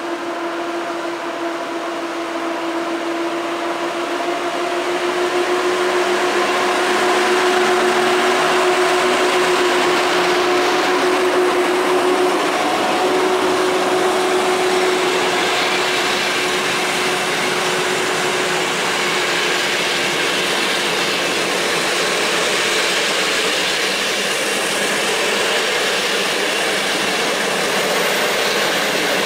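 An EP07 electric locomotive and its passenger coaches running past. A steady hum fades away after about eighteen seconds, and the rushing, rolling noise of the coaches' wheels on the rails, loudest from about six seconds in, carries on to the end.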